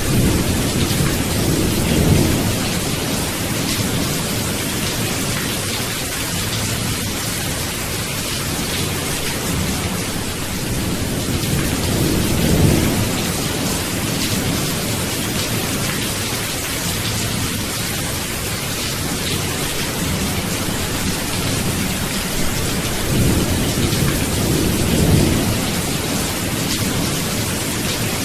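Steady heavy rain with low rolling thunder, the rumbles swelling three times: near the start, around the middle and again near the end.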